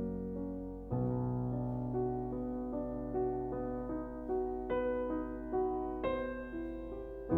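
Slow, calm piano music: a low chord about a second in, then single melody notes over it.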